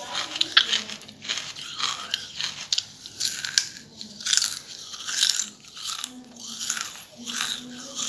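Close-up crunching and chewing of charcoal in the mouth: crisp crunches come in quick succession, one or two a second, as the pieces are bitten and ground between the teeth.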